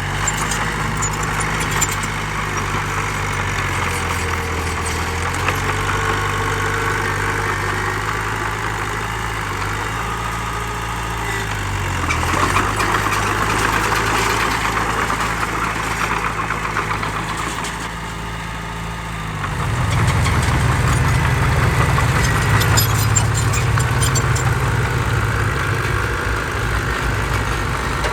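Heavy diesel engine of earth-moving machinery running, its pitch shifting a few times. About twenty seconds in it revs up and runs louder.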